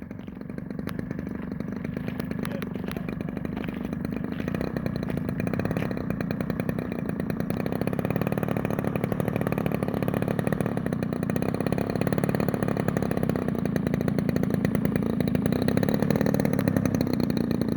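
Cessna 195's radial engine running steadily with a fast, even beat, growing gradually louder.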